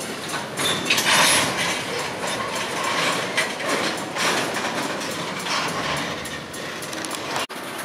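A train rolling past, its wheels clattering and clicking over the rails.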